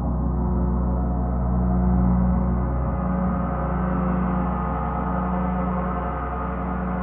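Gong sounding in a sustained wash of deep, overlapping tones with no distinct strikes, swelling slightly about two seconds in and then easing.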